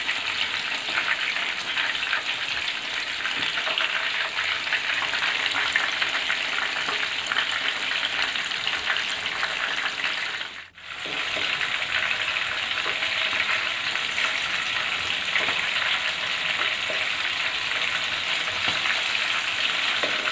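Batter-coated anchovy bajji deep-frying in hot oil, with a steady crackling sizzle that drops out briefly about halfway through. The sizzle is still lively, a sign that the fish is not yet cooked through; it dies down once the fish is done.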